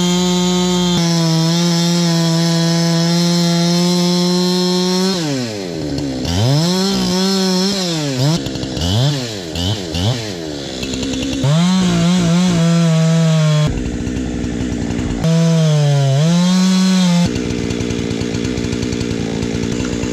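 Two-stroke chainsaw held at high revs, then the throttle let off and squeezed again several times, so the engine pitch falls and rises repeatedly. It returns to high revs, with abrupt shifts and a lower, rougher running sound near the end.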